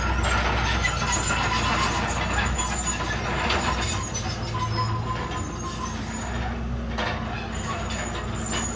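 Komatsu D31PX bulldozer's diesel engine running steadily under work, with a couple of short knocks from the machine.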